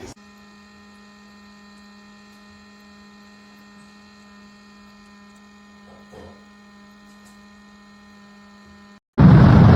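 Steady electrical hum, a buzz of many fixed tones strongest at the low end. Near the end a much louder, even rushing noise cuts in suddenly.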